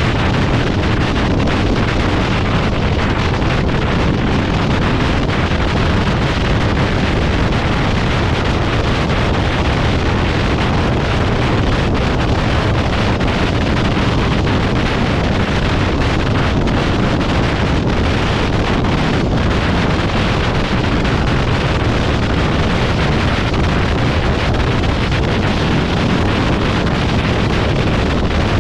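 Steady rushing wind noise on the microphone, loud and unbroken, with a few faint ticks in the middle.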